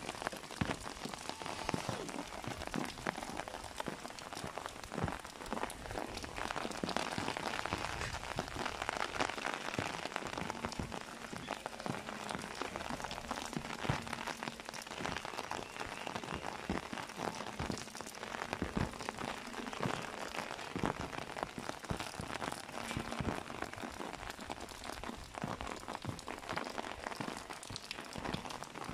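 Steady rain falling, with many close drops striking an umbrella canopy overhead as sharp ticks.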